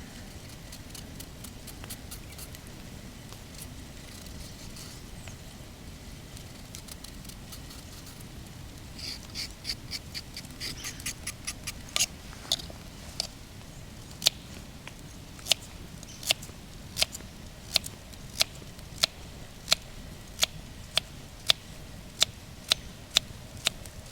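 Steady low background noise with faint clicks. About halfway through, sharp knocks begin, first bunched together, then settling into an even rhythm of about one and a half knocks a second.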